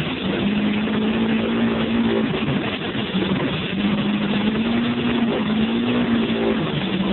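VAZ 2107 1.6-litre four-cylinder engine revving: its note rises and is held for about two seconds, drops back, then is raised and held again for almost three seconds.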